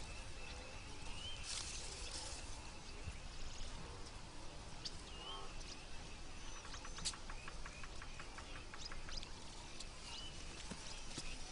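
Quiet outdoor bush ambience: a low steady background hiss with scattered short bird chirps, and a rapid run of ticks about seven seconds in.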